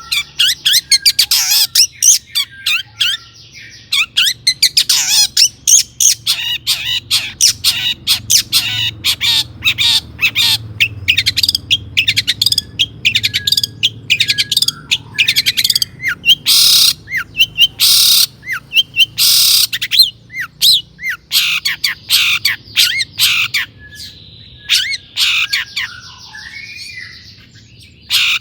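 Long-tailed shrike (cendet) singing a fast, harsh, chattering song: a dense string of scratchy notes broken by short whistles, with a slightly sparser stretch of raspy notes near the end.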